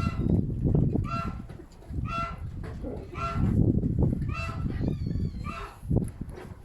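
Strong wind buffeting the microphone in gusts, with a farm bird's honking call repeated about once a second.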